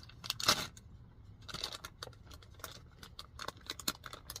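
Light rustling and scattered sharp clicks of small objects being handled, coming at irregular moments.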